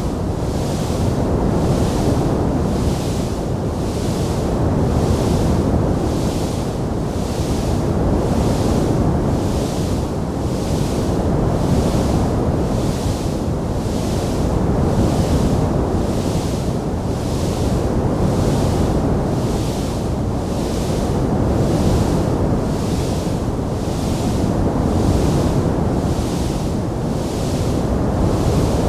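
Steady rushing noise: a low rumble under a hiss that pulses about once a second, swelling and easing every few seconds, with no crackles or pops.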